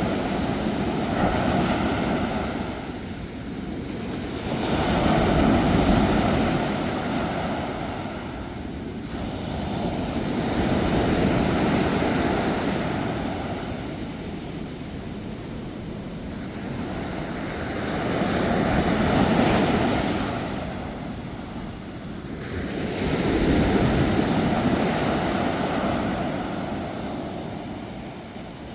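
Ocean waves breaking and washing on the shore in slow surges, each swelling and fading over about five to seven seconds.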